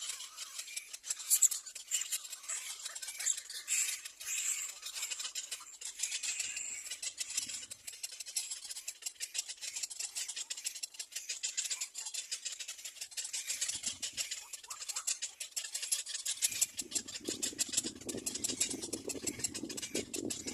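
Little black cormorant nestlings begging: a dense, rapid, high-pitched chittering that runs on without pause. A lower, rougher noise joins in near the end.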